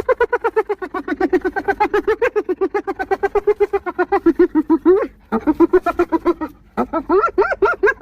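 Spotted hyena laughing: a rapid, unbroken run of short, high-pitched giggling notes, about nine a second. The notes sink slightly in pitch, and the run breaks off briefly twice, a little past halfway and again near the end.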